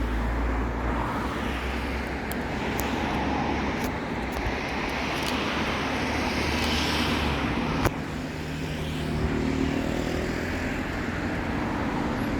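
Bus engine running steadily with street traffic noise, its note shifting about eight seconds in; a single sharp click just before the change.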